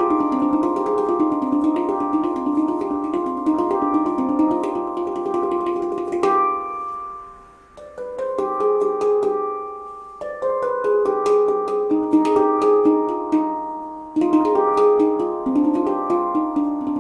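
Meraki handpan played by hand, quick rolling runs of struck, ringing steel notes on a C harmonic minor (Hijaz-flavoured) scale. The playing comes in several phrases, each letting the notes ring and fade before the next begins, with the longest pause about seven seconds in.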